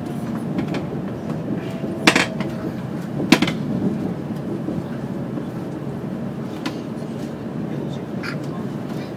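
Kyushu Shinkansen train running on the viaduct, heard inside the passenger car as a steady low rumble. Two sharp clicks stand out about two seconds in and again a second later.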